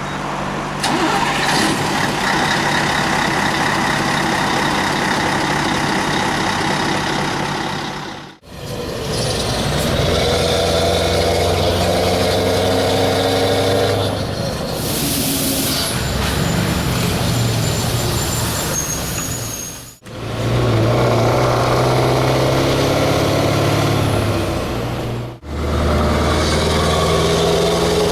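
Scania 4-series V8 diesel truck engine running, heard in four separate takes with abrupt cuts between them. A short sharp hiss of air comes about halfway through.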